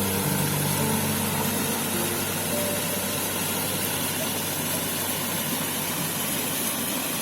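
Brook water rushing steadily, with a steady low hum underneath and a few faint held tones in the first seconds.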